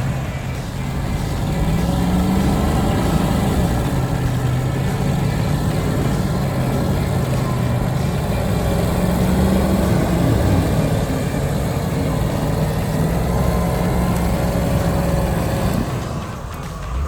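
An off-road vehicle's engine running under changing load, its pitch rising and falling several times, over a steady rushing noise.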